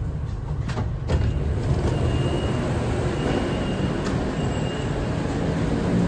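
BTS Skytrain EMU-B1 electric train running, a steady rumble with a few clicks about a second in and a faint thin high tone through the middle.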